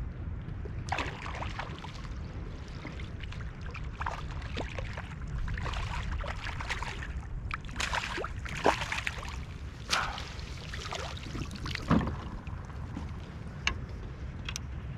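Water splashing and dripping as a hooked snook is brought alongside and lifted onto the kayak, with scattered short splashes and knocks over a steady low rumble.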